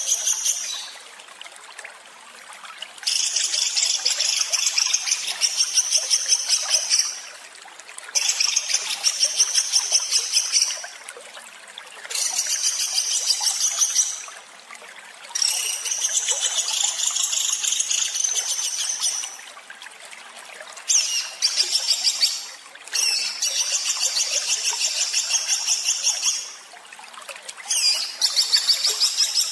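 A small songbird's harsh, rapid-fire rattling song ('tembakan kasar'), high-pitched and delivered in about eight bursts of two to four seconds each, with roughly a second's pause between them.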